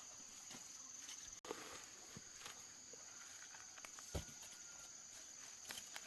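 Faint, steady, high-pitched insect chirring, with scattered light clicks and knocks and a duller thud about four seconds in.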